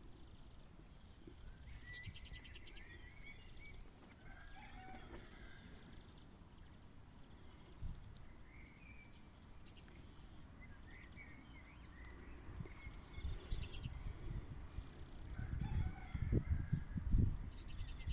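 Quails giving short, soft chirping calls now and then. Low rumbling thuds build up near the end and are the loudest sound.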